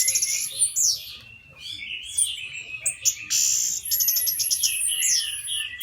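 Orange-headed thrush (anis merah) singing a varied song of whistled glides, quick runs of rapid notes and high thin notes, with a short lull about a second and a half in.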